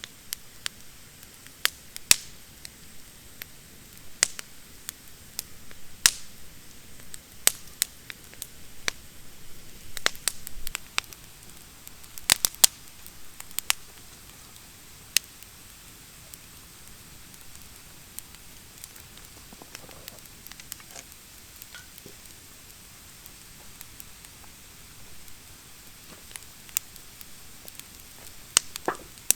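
Wood fire of thin, still-damp branches crackling, with irregular sharp pops over a soft hiss. The pops come thick in the first half and thin out later.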